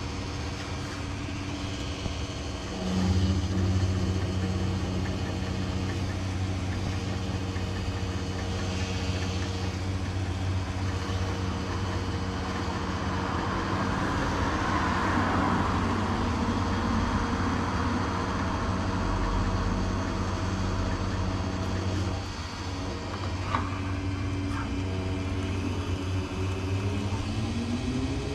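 Honda CB400 Super Four motorcycle's inline-four engine running through its exhaust with a very deep bass note, getting louder about three seconds in. Near the end the engine speed climbs.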